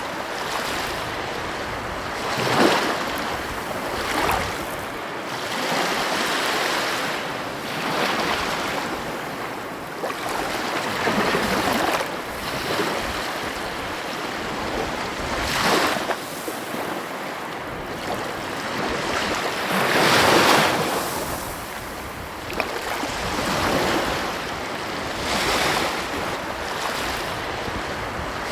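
Ocean waves breaking on a beach: a continuous rushing wash with a swell every few seconds as each wave comes in, the loudest about twenty seconds in.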